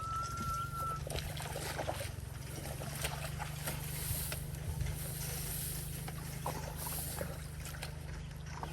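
A small engine running steadily with a low, even drone, with scattered light splashes and knocks over it. A single high, whistle-like tone is heard for about a second at the start.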